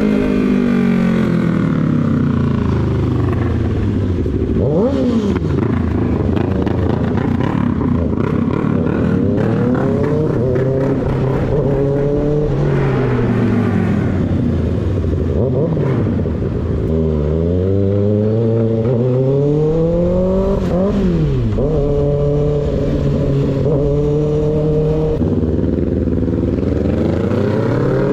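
Sport motorcycle engine on the move, its revs climbing and dropping repeatedly through the gears, with quick sharp rev blips about five seconds in and again near twenty seconds, and steady stretches at constant revs in between.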